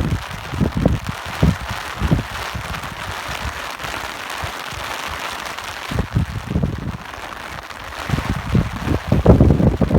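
Steady rain hiss with gusts of wind rumbling underneath. The gusts come and go, ease off in the middle and are strongest near the end.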